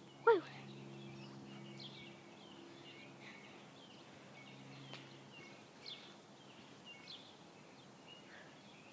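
Faint bird chirps scattered through the background, over a steady low hum that fades out about five seconds in. A short, loud falling squeal comes right at the start.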